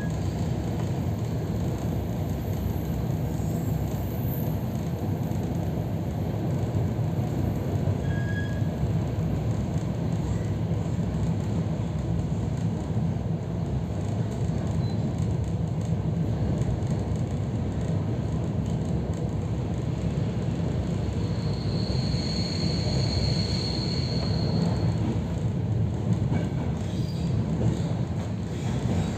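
EP3D electric multiple unit running along the line, heard from inside the passenger car: a steady rumble of wheels on track. A thin high squeal rises over it for a few seconds about three-quarters of the way through.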